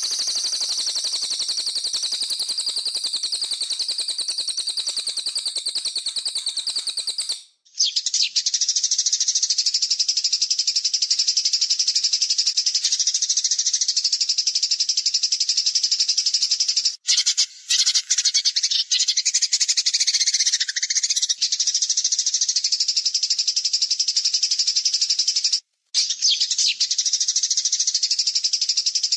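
Songbird masteran track: a dense, rapid, high-pitched buzzing trill that repeats almost without pause. It is broken by abrupt short cuts, about seven seconds in and again near the end, where recorded bursts are spliced together.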